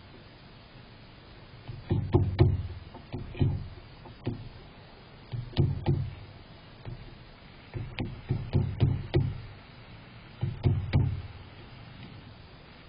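Irregular clusters of sharp taps and knocks close to the microphone, each with a dull thud, in five bursts of two to five taps.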